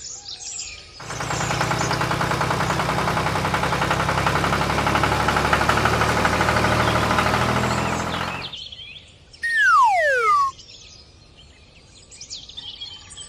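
A small engine or motor running steadily with a fast, even rhythm, starting about a second in and cutting off after about seven seconds. Then a whistle glides downward for about a second, with birds chirping faintly in the background.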